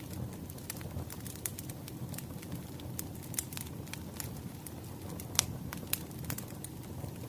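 Wood fire crackling steadily: a low rumble of the burning logs with irregular sharp pops and snaps, one louder pop about five seconds in.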